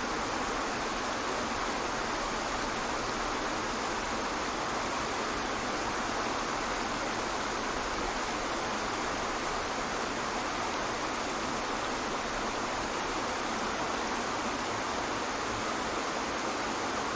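Waterfall rushing in a steady, even roar of falling water, unchanging throughout, with little bass.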